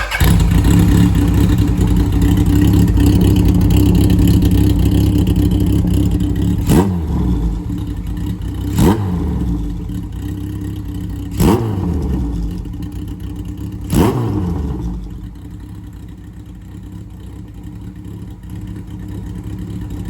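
Kawasaki KZ1000's air-cooled inline-four running loud through a short-pipe exhaust, held at a fast steady idle, then blipped four times with the revs sweeping back down after each. It settles to a quieter, lower idle near the end.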